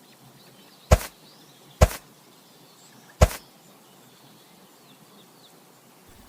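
Three sharp knocks, at first about a second apart and then a longer gap, over faint bird chirps.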